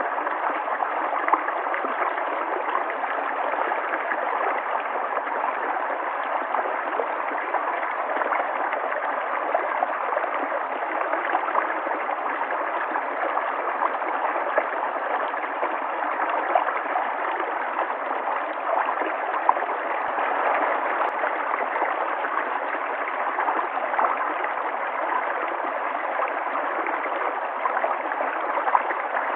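River water flowing steadily, a continuous rushing with small splashes and gurgles through it.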